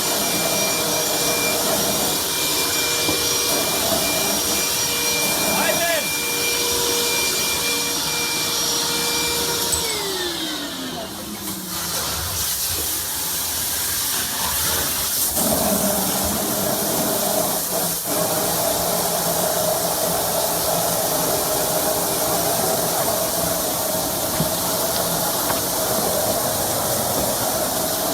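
A power tool cutting into a live water line, its motor running steadily and then winding down in pitch about ten seconds in. After a short lull comes a steady rushing noise, fitting water spraying from the cut pressurized pipe.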